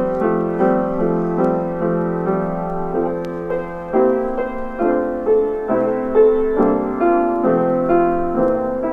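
Gentle piano music, single notes and chords struck at a slow, even pace.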